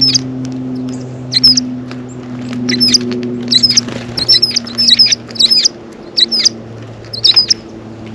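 Small songbirds at a feeder giving short, high chirps, about a dozen of them in quick clusters, over a steady low hum.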